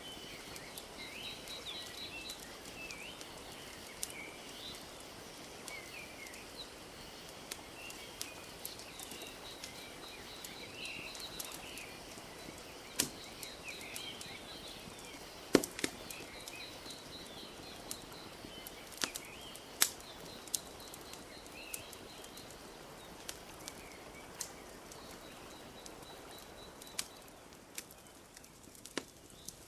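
Wood fire crackling, with scattered sharp pops and a few louder snaps around the middle, over a steady soft hush of lake water lapping. Small birds chirp throughout, with a rapid high trill repeating now and then.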